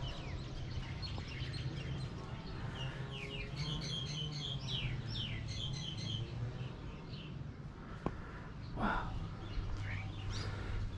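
Birds chirping: a quick run of short, high, repeated calls from about three to six seconds in, over a steady low hum, with a click and a short thud near the end.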